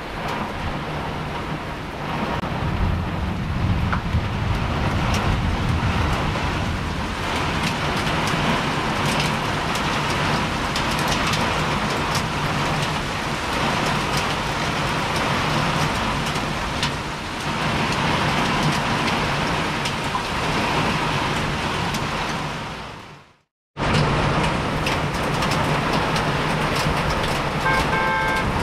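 A motor running steadily under a rushing wash of noise. It fades out about 23 seconds in and comes back abruptly, and near the end a short series of beeps sounds.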